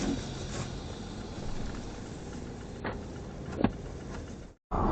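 Steady car road and engine noise picked up by a dash camera, with two sharp clicks about three and three and a half seconds in. It cuts off abruptly near the end.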